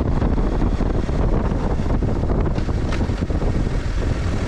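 Wind buffeting a moving action camera's microphone: a steady, loud rumbling noise heaviest in the low end.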